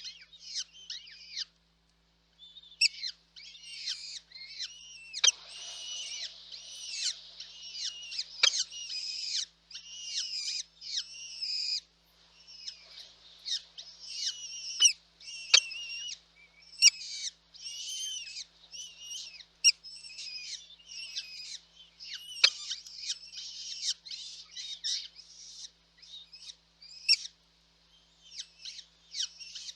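Nestling birds cheeping in the nest, a dense run of high, rapidly repeated calls with quick falling notes, the sort of calling chicks make when begging for food. There is a brief pause about two seconds in.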